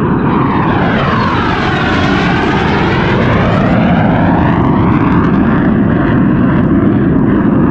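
A military fighter jet flying over, loud, with a rushing jet roar whose tone sweeps down and back up as it passes overhead a couple of seconds in.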